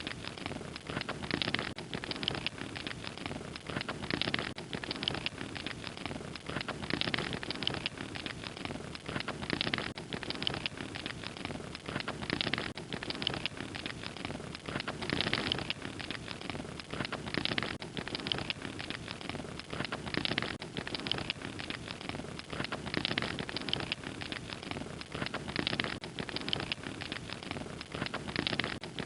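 Fire crackling steadily: a dense hiss of small pops and snaps that swells in waves every second or two.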